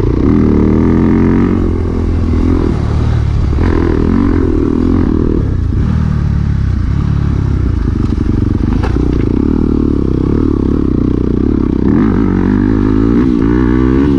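Dirt bike engine running, its pitch rising and falling with the throttle.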